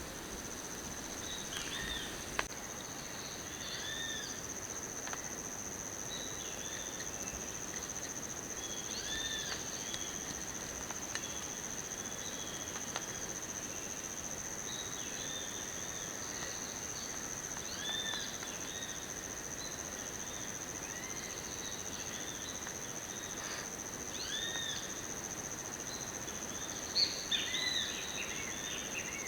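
Forest insects keep up a steady, high-pitched continuous trill, with short arching bird calls repeating every few seconds over a faint background hiss.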